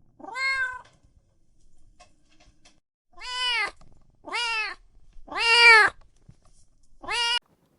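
Domestic cat meowing five times, each meow rising and then falling in pitch; the fourth meow is the longest and loudest.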